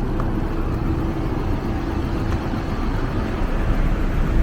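Steady low rumble of a moving vehicle, with a thin, steady mid-pitched hum running through it.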